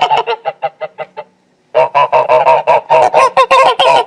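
Geese honking in quick repeated calls. A first run trails off about a second in, and after a short pause another dense run of honks follows.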